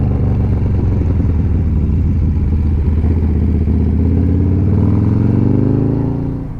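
Motorcycle engine running under way, its pitch climbing steadily as it accelerates through the second half, then dropping off just before the end.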